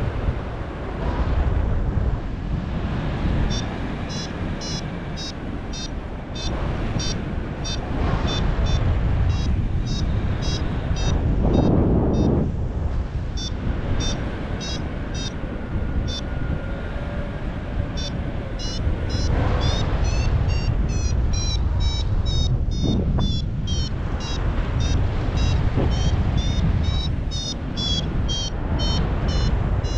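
A paraglider's variometer beeping in quick short high tones, a couple to a few per second and faster near the end, the climb tone that signals rising air. Underneath is a steady rush of wind on the microphone.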